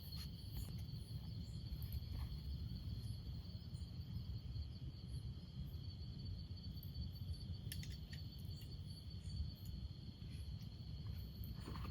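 Chorus of crickets trilling steadily at a high pitch over a low, steady rumble, with a few faint ticks about eight seconds in.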